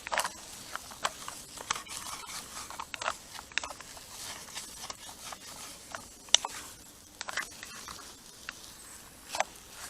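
A utensil stirring scrambled eggs and bacon in a pan over a campfire: irregular scrapes and taps against the pan, one sharper tap a little after the middle.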